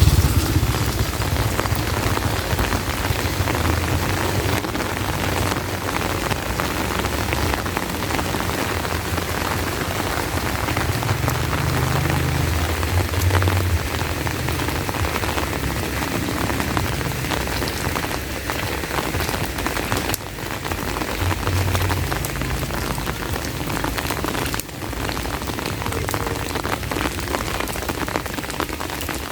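Heavy rain pouring steadily, with intermittent low rumbles.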